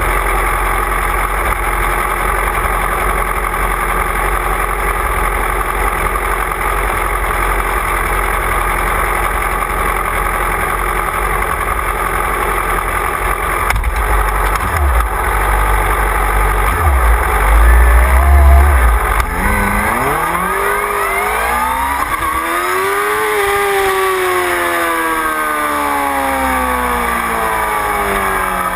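Wind rushing over a camera mounted on a motorcycle at speed, with heavy buffeting swelling about two-thirds of the way through. Then the motorcycle engine's note rises steadily as it accelerates and falls away again near the end.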